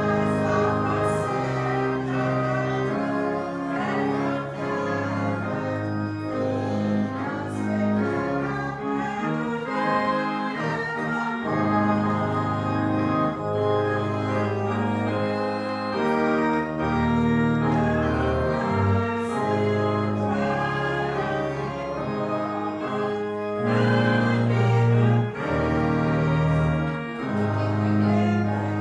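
Organ music playing the closing harvest march in sustained chords, with held bass notes that change every second or two.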